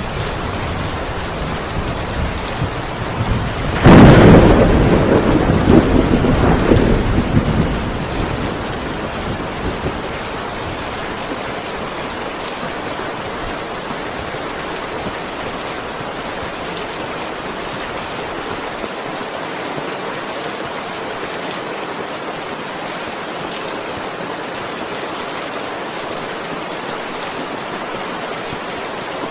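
Heavy rain falling steadily, with a sudden loud thunderclap about four seconds in that rumbles on for a few seconds before dying away.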